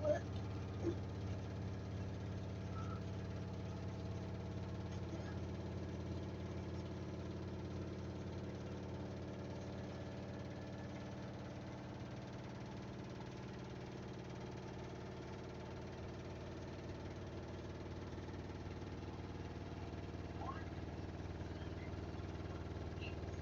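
Samsung washing machine in its final spin with a load of bedding and blankets, giving a steady motor and drum hum at constant pitch. Two short clicks come near the start.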